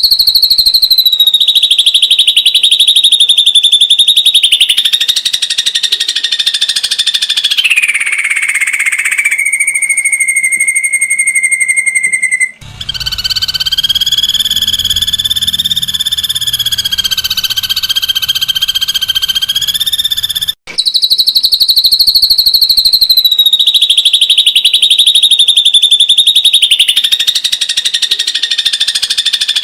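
Ashy drongo giving rapid-fire 'tembakan' calls: loud, high-pitched fast trills lasting several seconds each, sliding down in pitch. Twice the recording cuts abruptly to the next looped stretch.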